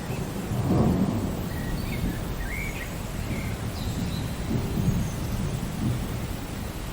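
Steady rain with low, rolling thunder rumbling underneath, swelling about a second in.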